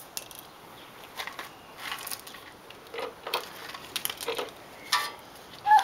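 Irregular crunching and clattering of rocks as toy trucks scoop and dump them, with a brief high squeal near the end.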